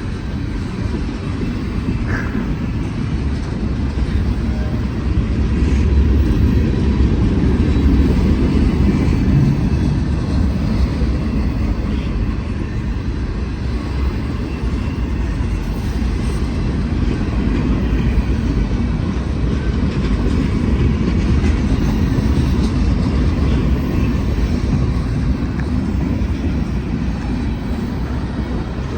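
Union Pacific freight train rolling past: a continuous low rumble of wheels on rail, swelling slightly about six to ten seconds in.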